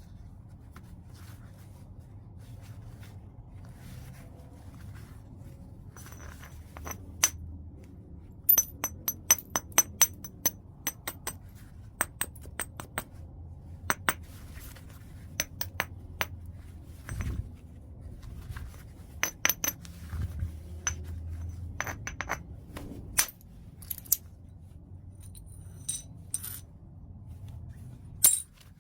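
White chert being flintknapped: irregular sharp clicks and clinks of stone on stone as flakes come off, some with a brief glassy ring. They start about six seconds in and come in quick clusters, over a low steady hum.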